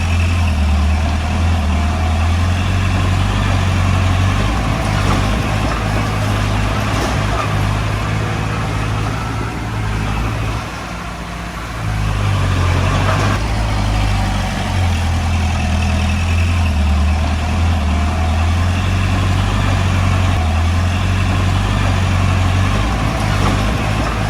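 Komatsu D20P bulldozer's diesel engine working, a steady low drone that eases off briefly about eleven seconds in, then picks up again.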